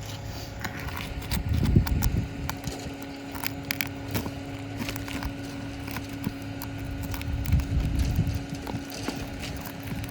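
Hammer taps and scraping knocks as a roof snake (shingle ripper) is worked under asphalt-shingle nails to pull them, with irregular clicks throughout and heavier thumps about two seconds in and again near the end.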